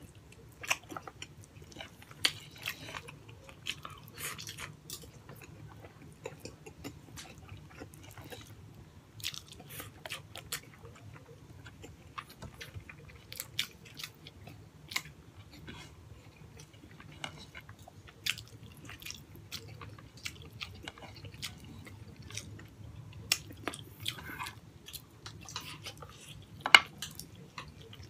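A person chewing and biting braised pork hock and rice eaten by hand: a run of irregular short mouth clicks and smacks, with one sharper, louder click near the end.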